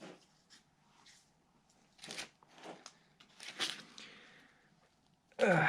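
A few short scrapes and rustles of hands working on engine parts, as a stuck valve lifter is worked at.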